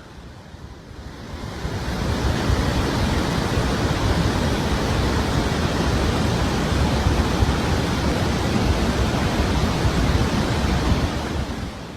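Heavy, steady rush of water pouring out of the Tarbela Dam spillways. It swells up over the first two seconds and eases off near the end.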